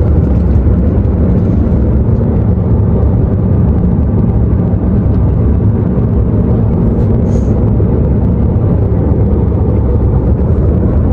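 A loud, steady low rumble of vehicle noise, with no distinct events.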